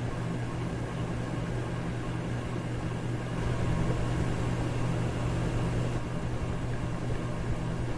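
Electric fan running steadily: a rush of moving air over a low motor hum, getting a little louder from about three seconds in.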